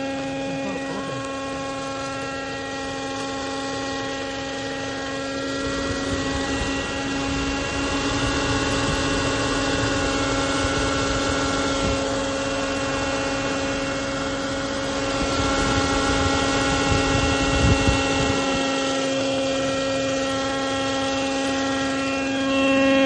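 2004 Toyota Camry LE's 2.4-litre four-cylinder engine running at 304,000 miles with a steady, pitched wheeze from the back of the engine. A rougher low rumble rises under it through the middle and fades again.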